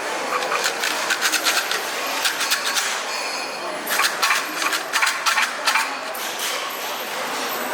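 Sticks rattling inside a shaken omikuji fortune box at a Japanese shrine, in two bursts of quick clicking about a second apart.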